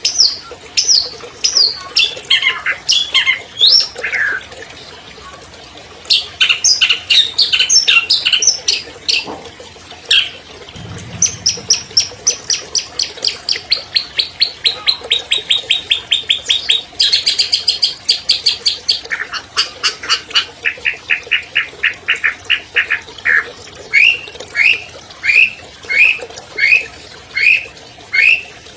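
Long-tailed shrike (cendet) singing a loud, varied song of quick mimicked phrases. In the middle comes a long, fast trill that slowly falls in pitch. Near the end it gives a run of sharp, repeated falling notes, about two a second.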